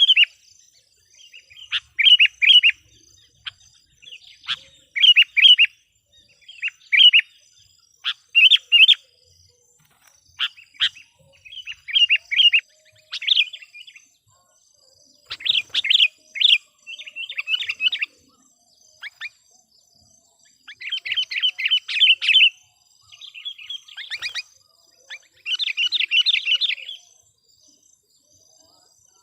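Sooty-headed bulbul (kutilang), a trained decoy bird, calling in short bursts of quick chattering notes repeated every second or two, with longer runs near the middle and toward the end. The calls are meant to excite and lure wild bulbuls.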